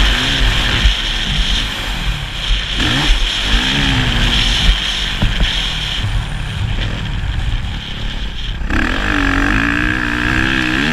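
Motocross motorcycle engine running hard, its pitch rising and falling again and again with the throttle and gear changes. A heavy low rumble runs under it, and a stronger engine note comes in near the end.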